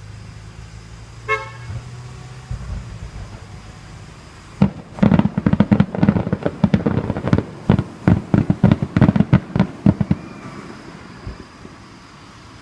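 Fireworks going off in a rapid barrage of sharp bangs, several a second, for about five seconds. Before the barrage, a short horn-like toot sounds about a second in.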